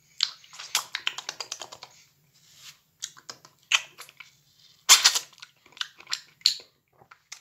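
A person chewing peeled mandarin segments close to the microphone: rapid mouth clicks and smacks in several bursts, the loudest about five seconds in.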